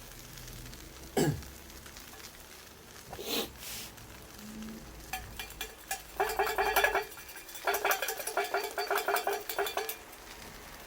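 A metal utensil scraping and clinking against a metal pan over the fire in rapid repeated strokes, in two runs in the second half, the longer one near the end, after a single click about a second in.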